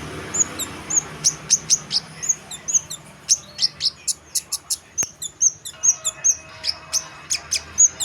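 A kemade songbird singing in full voice: a fast run of short, sharp high chirps and hooked whistled notes, about four to six a second, mixed with clicky ticks.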